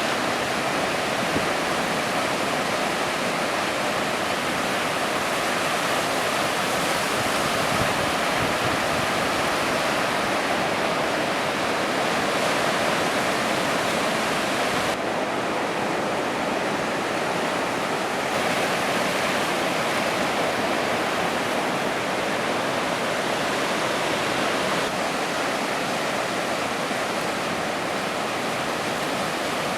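Ocean surf breaking, heard as a steady, dense rush of water noise. Its tone changes abruptly about halfway through, and again about three-quarters of the way in.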